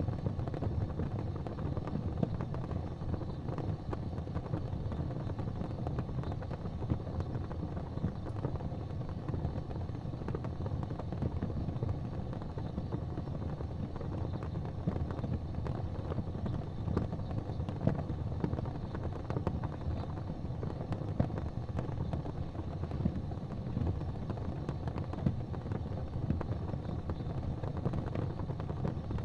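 Wood fire burning in a fireplace: a steady low rumble of flames with scattered small crackles and an occasional louder pop.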